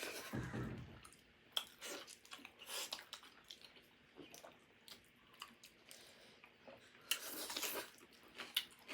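Close-miked eating sounds: wet chewing and mouth noises with short crunches and clicks at irregular intervals, and a louder noisy stretch about seven seconds in.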